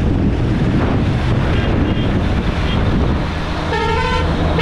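Road traffic noise with a low engine hum. A vehicle horn honks once, briefly, near the end.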